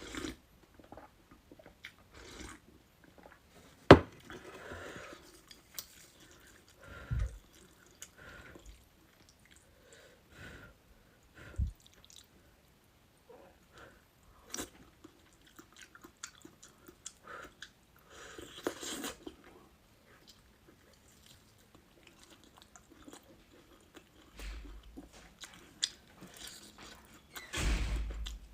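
Close-miked eating: crunchy chewing and bites of crisp food, with scattered crackles and mouth clicks in irregular bursts. A single sharp tap, the loudest sound, comes about four seconds in.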